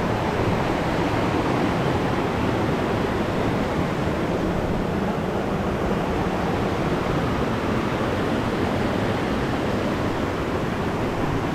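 River water rushing steadily, a continuous even roar of flowing water.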